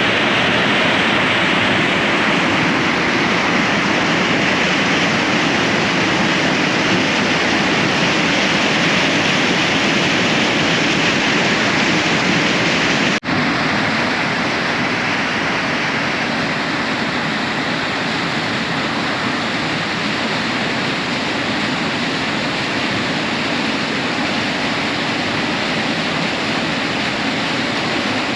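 Waterfall, a steady, loud rush of falling water. About halfway through it breaks off for an instant and comes back slightly softer and duller.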